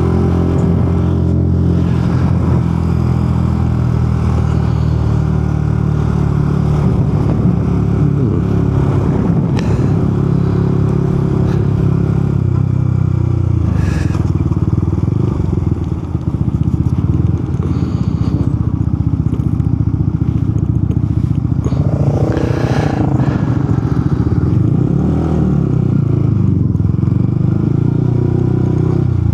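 Motorcycle engine running steadily under way as the bike is ridden along, heard from a helmet-mounted camera.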